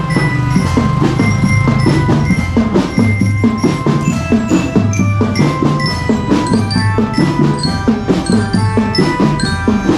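A children's marching drum band playing: drums beating a steady, dense rhythm under a melody of short ringing notes on glockenspiel-type bell lyres.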